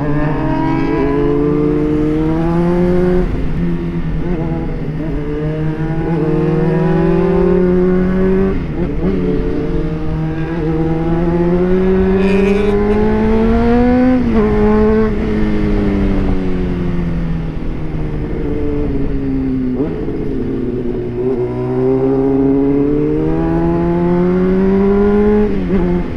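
Sport bike engine under way on the road, its pitch climbing steadily through the revs and dropping sharply several times, as at gear changes, with one slower fall in the middle as the bike eases off.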